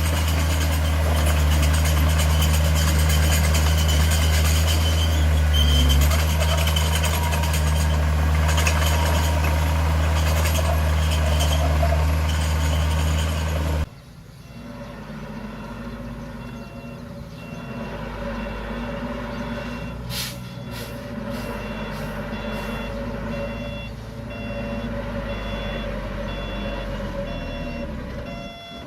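Heavy diesel earthmoving machinery running loud and steady with a deep engine note. About halfway through it cuts to a quieter truck engine with a reversing beeper sounding in a steady repeating beep and a few short air hisses.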